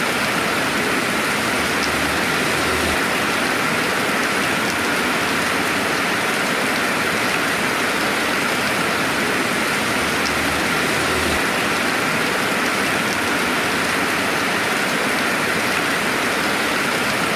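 Steady rainfall without thunder: an even hiss of rain falling, with a few faint drop ticks.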